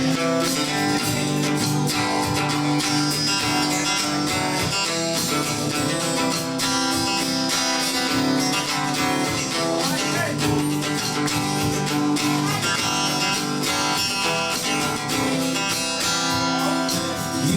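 Acoustic guitar strummed steadily, playing the instrumental intro of a song, with no singing yet.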